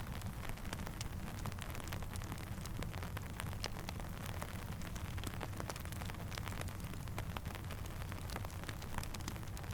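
Steady rainfall mixed with a crackling campfire: an even hiss over a low rumble, dotted all through with many small sharp pops and ticks.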